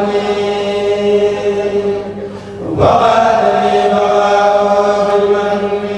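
Kourel of male voices chanting Mouride devotional poems in unison on long held notes. The chant dips briefly about two and a half seconds in and comes back on a rising note.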